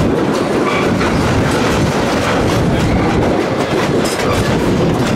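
Narrow-gauge steam train heard from an open passenger coach while under way: a steady rumble of the cars rolling, with the wheels clicking over the rail joints.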